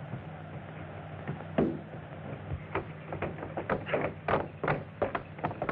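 A run of sharp knocks and clatters, a single strong one about a second and a half in and then coming more often, over the steady low hum of an early film soundtrack.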